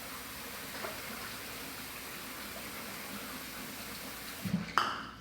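Water running steadily into a container. It stops near the end with a couple of clunks.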